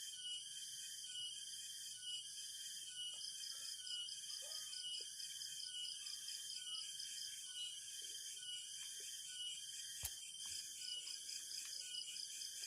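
Rainforest insect chorus: several layered high trills, some steady and some rapidly pulsing, all running evenly. A single sharp click sounds about ten seconds in.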